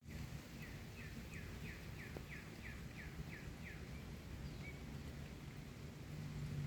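A songbird singing a run of about ten short down-slurred notes, about three a second, that stops a little past halfway, over a low background rumble.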